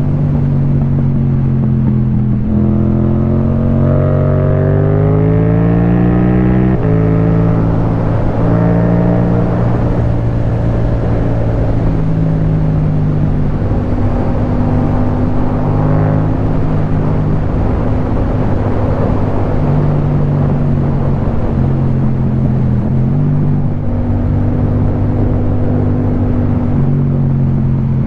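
Yamaha MT-07's 689 cc parallel-twin engine through an Akrapovic exhaust, rising in pitch under acceleration for a few seconds. About seven seconds in the pitch drops suddenly at an upshift, and the engine then runs at a fairly steady speed with small throttle changes.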